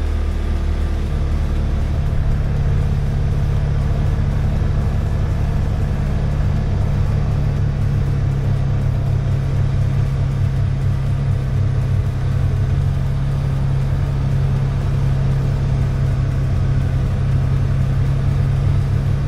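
Polaris Ranger 570 side-by-side's single-cylinder engine running steadily under way. The engine note steps up a little about a second in, then holds steady.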